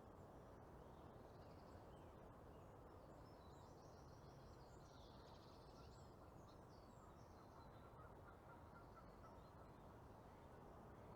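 Near silence: faint small-bird song and chirps over a low, steady outdoor background rush, the calls clustered in the middle.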